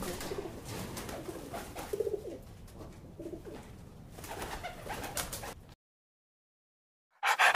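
A flock of feral pigeons cooing low, with scattered short clicks among them. The sound drops to dead silence about six seconds in, and rhythmic dog panting starts just before the end.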